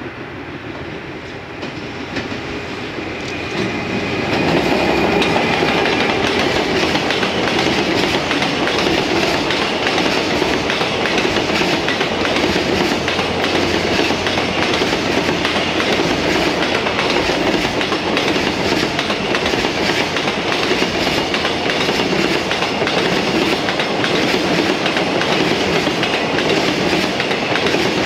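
JR Freight EF210 electric locomotive hauling a long container freight train past. The sound grows over the first four seconds or so as the train nears, then settles into a steady, loud clickety-clack of wagon wheels over the rail joints as the container wagons roll by.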